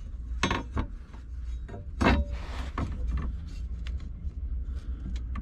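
Knocks and clanks of parts and tools being worked on a car, with the loudest knock about two seconds in followed by a short scraping rub, over a steady low hum.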